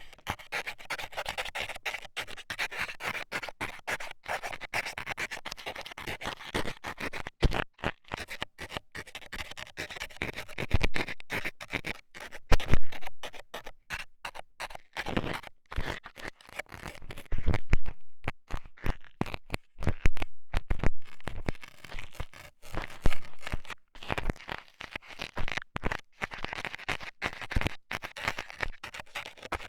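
Ear-cleaning ASMR: a scaler rapidly scratching, scraping and poking inside an ear. From about seven seconds in, louder knocks and thuds break in every few seconds.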